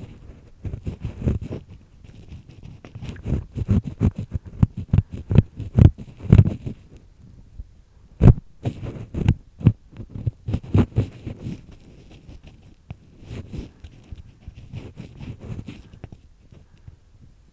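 An earpick scraping inside a person's ear canal, heard close up: a run of irregular, crunchy scrapes and clicks as dry earwax and skin are worked loose. There are short pauses, and one sharp click about eight seconds in.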